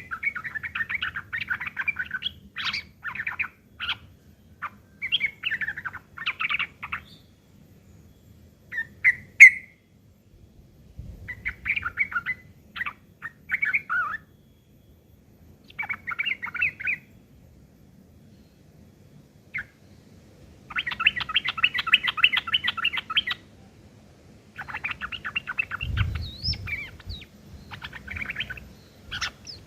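Yellow-vented bulbuls (trucukan) giving harsh, rapid chattering calls in repeated bursts with short pauses between them, the longest burst about two-thirds of the way through; a rough, agitated fighting chatter.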